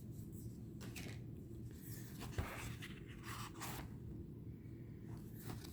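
Paper handling: a few short papery swishes as pages of a small guidebook are turned, with a light tap about two and a half seconds in, over a low steady room hum.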